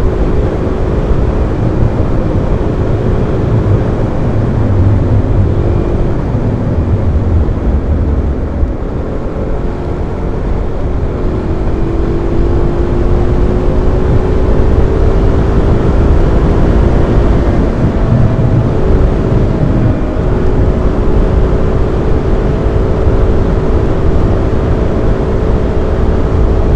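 Single-cylinder supermoto motorcycle engine running at road speed, heard through a microphone inside the helmet's cheek pad under heavy wind rush. The engine note holds steady and shifts up and down in pitch several times with the throttle.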